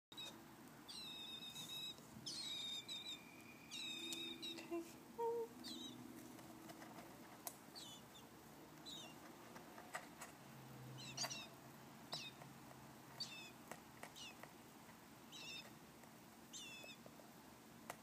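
Baby bird chirping. It gives three longer calls in the first few seconds, then short, downward-sliding chirps about once a second.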